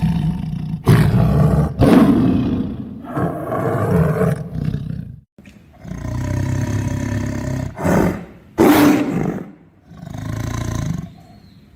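Tiger roaring again and again, some eight rough roars close together, with a longer, steadier roar about six seconds in.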